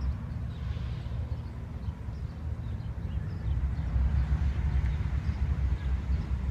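Freight train rolling past, a steady low rumble of the cars going by.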